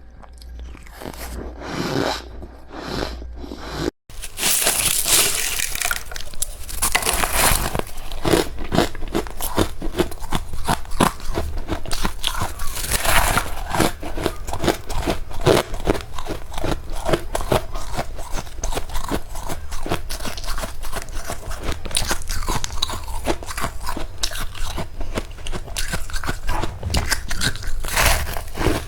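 Close-miked crunching and chewing of powdery freezer frost, sparse at first; after a brief cut about four seconds in, a dense, rapid run of crunches.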